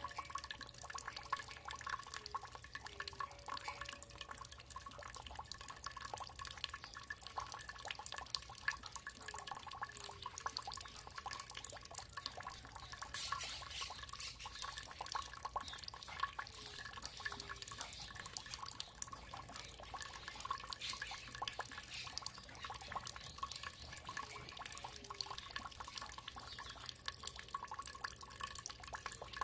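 Running water trickling and dripping steadily, a dense patter of small drops and splashes.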